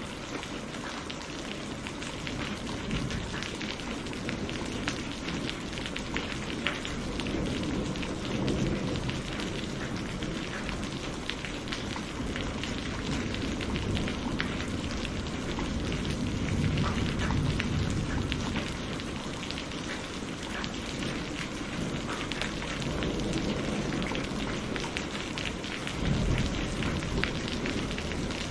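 Steady rain with many fine drops pattering, and low thunder rumbles that swell up several times.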